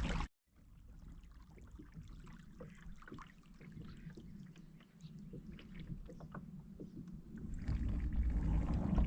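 Kayak on the water: faint lapping and small light knocks and ticks against the hull. From about eight seconds in, a louder low rumble comes in.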